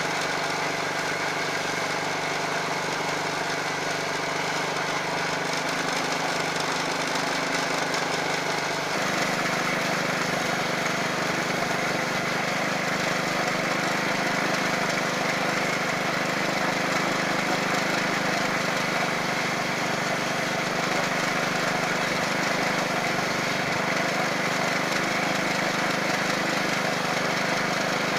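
Small gas-fuelled engine of a coconut grating machine running steadily. About nine seconds in its note changes abruptly and the sound fills out.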